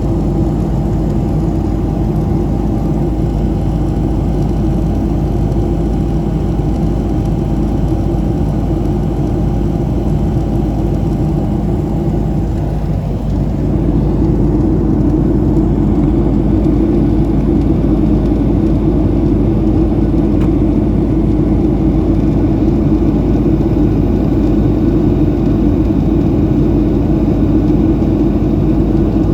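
Steady engine and airflow noise of a Boeing 737-700 in flight, heard from inside the cabin. A faint steady hum fades out about halfway through, and the rumble then grows louder and stays steady.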